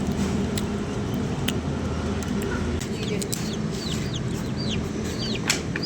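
Birds calling: short, high, falling chirps repeating rapidly from about halfway through, over a steady low background noise.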